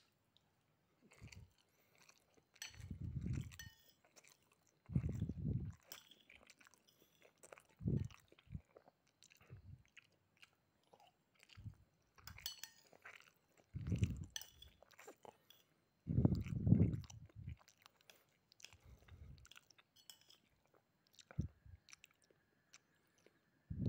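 Close-up chewing and crunching of a mouthful of fried rice with crisp rempeyek peanut cracker and salted fish. The chewing comes in dull bouts of a second or so every few seconds, with small crisp crackles between them.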